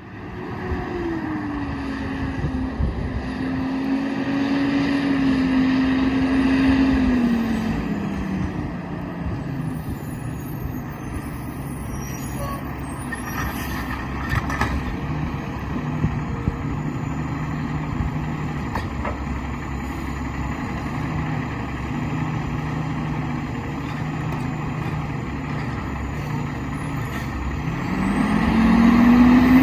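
Diesel engine of an Autocar WXLL garbage truck: its pitch falls over the first several seconds, then it idles steadily, with a few short clicks a little before the middle, and the revs climb again near the end.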